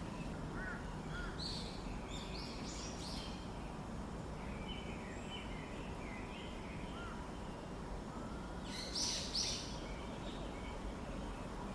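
Birds calling over a steady background hiss. Short high chirps come in a cluster a second or two in, softer ones follow midway, and a louder, brief call comes about nine seconds in.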